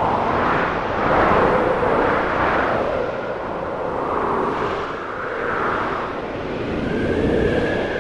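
Snowstorm wind blowing in gusts, swelling and easing every second or two, with a whistling note that drifts up and down in pitch.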